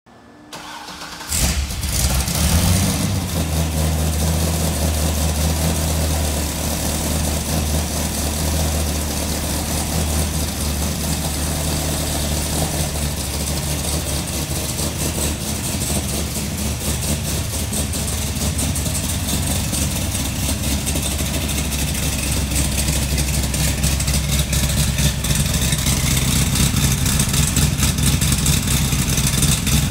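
Lingenfelter-modified Chevrolet Corvette Z06 V8 cold start: a brief crank, then the engine catches about a second in, flares up, and settles into a steady idle.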